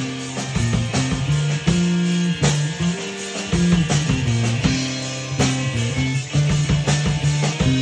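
A band playing an instrumental stretch of the song: guitar over a moving bass line and a steady drum beat.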